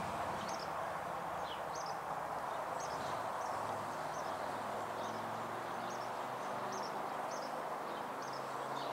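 A small bird chirping over and over, short high calls about every half second, over steady outdoor background noise with a faint low drone.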